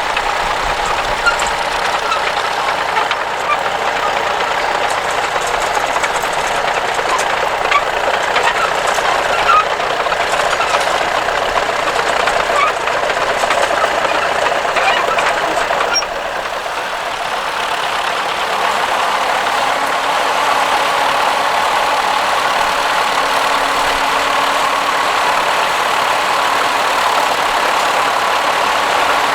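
Tractor engine running steadily, with a slight drop in level about halfway through.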